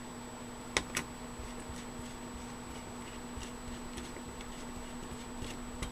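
Two small sharp clicks close together about a second in, then a few faint ticks, over a steady low electrical hum.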